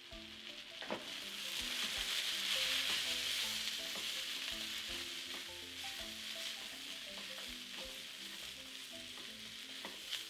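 Diced vegetables and dry spices sizzling in a hot nonstick pan while being stirred with a silicone spatula. The sizzle swells a second or so in as the food is turned over, then settles. A few light scrapes and taps of the spatula can be heard against the pan.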